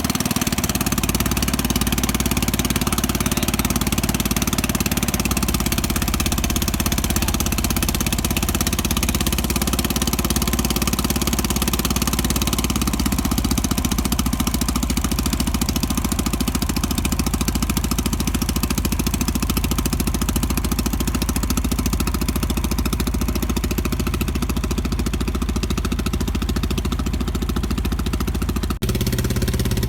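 Boat engine running steadily. Near the end the sound cuts abruptly to a slightly different engine note.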